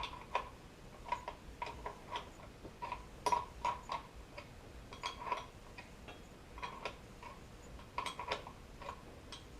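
Socket ratchet clicking in short, uneven runs as a transmission-to-engine bolt is driven in, the bolt threading in cleanly rather than cross-threading.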